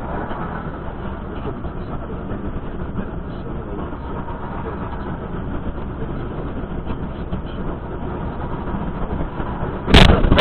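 Steady rumble of vehicle and road noise, then a sudden, much louder burst of noise near the end.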